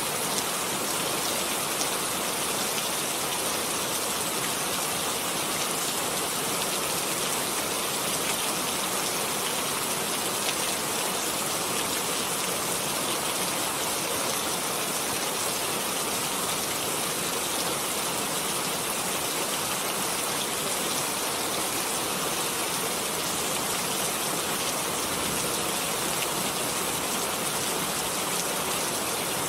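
Steady, even rainfall: a constant hiss of rain with no lulls or distinct events.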